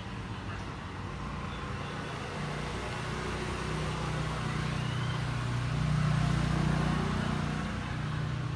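Motor vehicle engine running with a steady low hum, swelling louder a little past the middle and then easing off.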